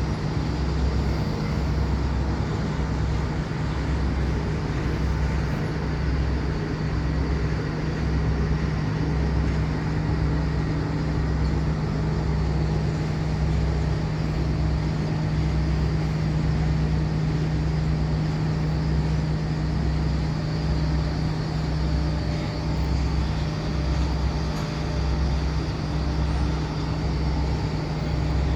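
Steady machinery hum with a deep pulse repeating about once a second.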